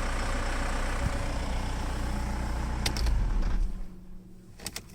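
Mercedes-Benz W245 2.0 CDI four-cylinder diesel idling steadily with no knock heard, running cleanly at this point. After a brief swell it is switched off about three and a half seconds in, and a few light clicks follow.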